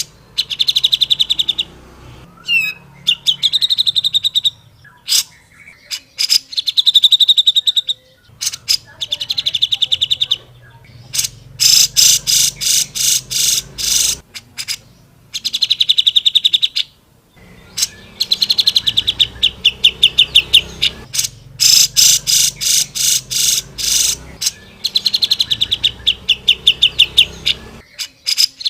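Grey-cheeked bulbul (cucak jenggot) singing loudly in repeated bursts of very rapid, high, chattering notes, each burst a second or two long with short pauses between.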